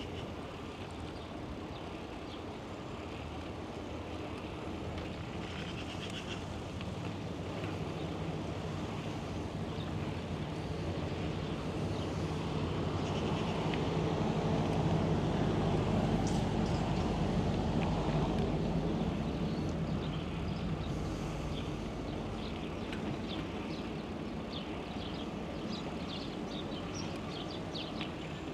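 Steady outdoor road noise that swells to a peak about halfway through and fades again, like a motor vehicle passing. Short bird chirps come near the end.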